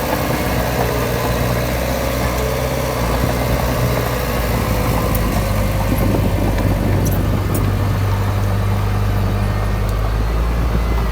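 Komatsu D53P crawler bulldozer's diesel engine running steadily with a low drone, which grows a little stronger about halfway through.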